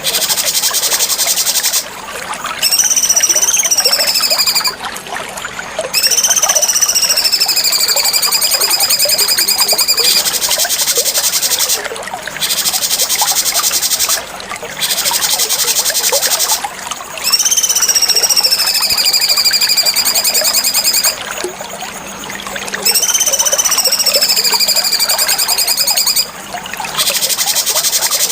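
Cucak cungkok bird song: four long whistled notes that rise briefly and then slide down, alternating with stretches of a dense, very rapid high-pitched buzzing trill, with short pauses between phrases.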